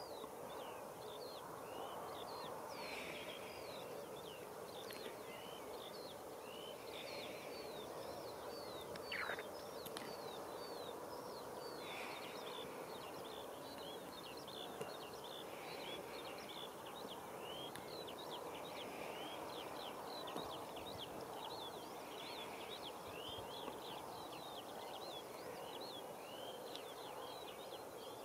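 Small birds chirping over and over in many short, falling chirps, over a steady background hum.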